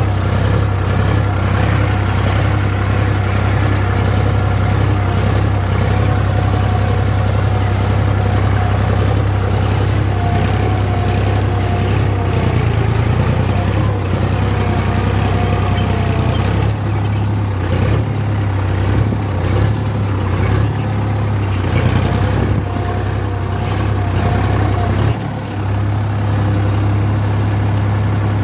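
Sonalika DI 35 tractor's diesel engine running steadily, with a brief drop in level near the end.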